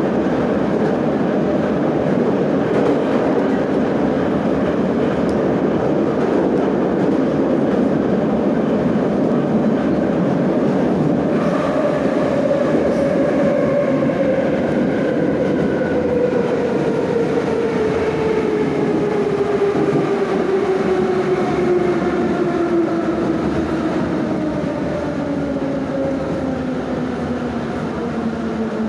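Metro train of the 81-717/714 'Nomernoy' type running through a tunnel, heard inside the car: a steady rumble of wheels and running gear. About eleven seconds in, a whine from the traction motors and gearing sets in and falls steadily in pitch as the train slows for the next station.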